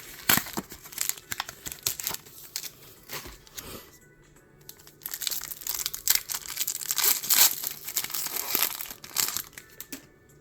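Pokémon card blister pack packaging crinkling and tearing as it is opened by hand, in two bouts: one in the first four seconds and a longer, louder one from about five seconds to near the end. Faint background music underneath.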